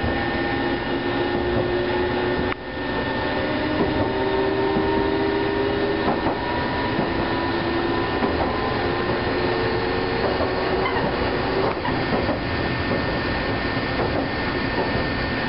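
Eizan Electric Railway electric train running on the line, heard from inside the car: a steady running noise of wheels on rail with a few held tones from the running gear that drift slowly in pitch. The sound dips sharply for a moment about two and a half seconds in.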